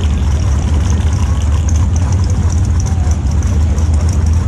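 Drag car engine idling with a steady low rumble, no revving.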